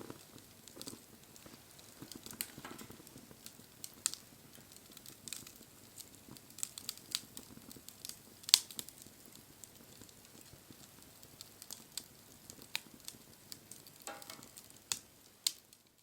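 Wood fire crackling, with irregular sharp pops and snaps over a faint hiss, one much louder pop about halfway through.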